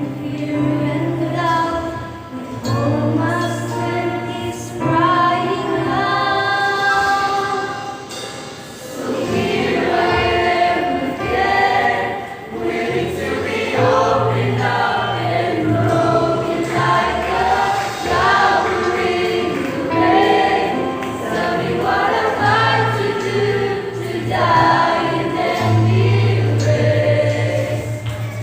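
Youth choir singing a gospel song over held low bass notes, the voices growing fuller about nine seconds in.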